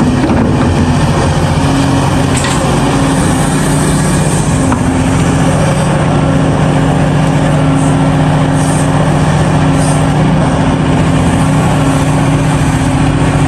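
Heavy diesel engine of an excavator or haul truck at work, running steadily at a constant pitch.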